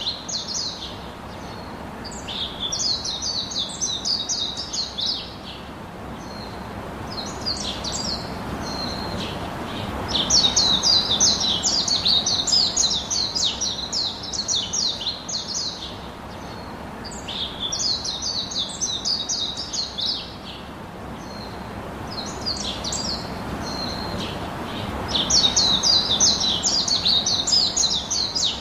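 Songbirds chirping in quick, high-pitched bouts a few seconds long that come back every several seconds, over a steady background hiss.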